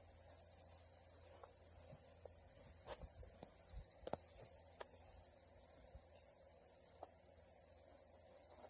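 Insects chirring in a steady, unbroken high-pitched chorus, with a few faint clicks in the middle.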